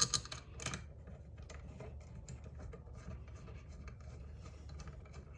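Light metal clicks and scraping of small 10 mm bolts being threaded in by hand on a transmission cover, with a few sharper clicks in the first second.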